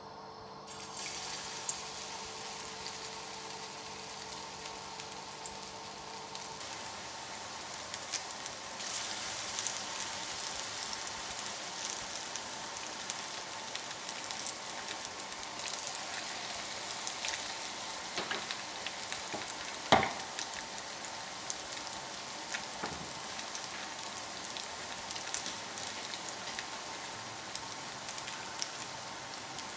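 Vegetable cutlets shallow-frying in hot oil: a steady sizzle with small crackles that starts about a second in, as the patties go into the pan. A single sharp knock comes about two-thirds of the way through.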